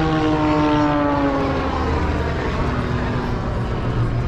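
An aircraft flying past, its engine tone sliding down in pitch over the first two seconds as it goes by, over a steady low hum.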